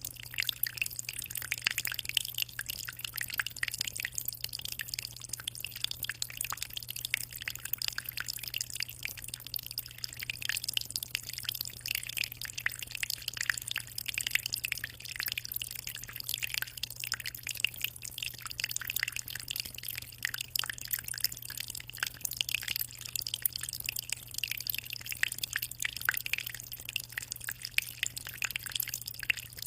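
Aquarium water in a steady fine patter of small drips and splashes, with a steady low hum underneath.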